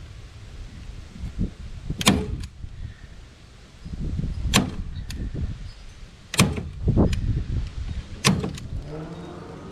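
Staple gun firing staples through a screen into a wooden board: four sharp snaps, a couple of seconds apart, with handling noise between them.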